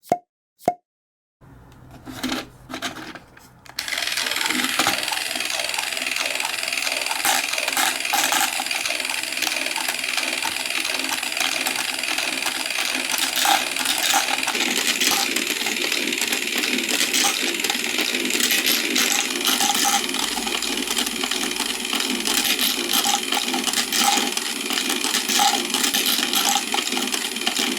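Marbles rolling and clattering down a block marble run. A few separate clicks early on give way, about four seconds in, to a dense continuous rattle of many marbles knocking against the blocks and each other. A single short pitched plop comes right at the start.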